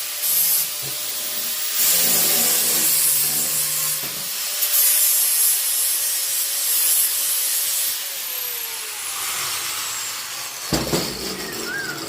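Angle grinder cleaning surface rust off steel angle iron: a loud grinding hiss over the steady whine of the motor. About eight seconds in the motor's pitch falls as the grinder winds down, and a sharp knock follows near the end.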